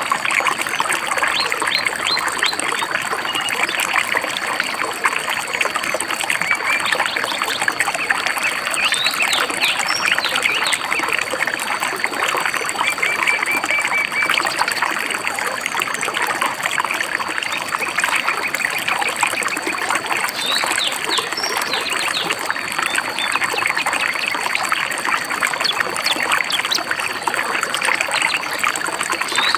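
A shallow stream babbling and trickling steadily, with small forest birds chirping over it, including short rapid trills. A thin steady high tone runs underneath.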